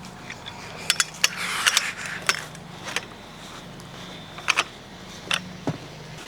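Scattered sharp clicks and clinks of small hard objects being handled, with a short rustle about a second and a half in, over a steady low hum.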